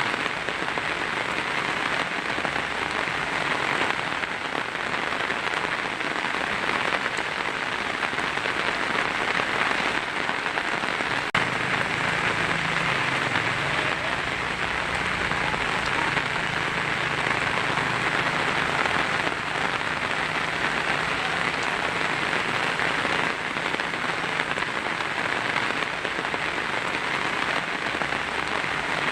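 Heavy rain falling steadily on a tin roof, a dense, even patter with no break.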